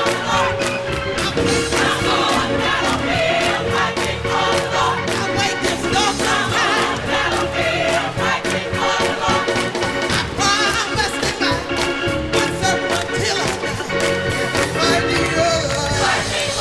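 Gospel choir singing with a live band and a steady driving beat, with crowd noise underneath.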